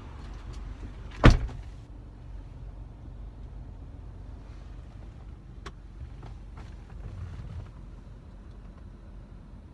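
A car door slams shut once, about a second in. After that the car cabin holds a low steady rumble and a few faint clicks.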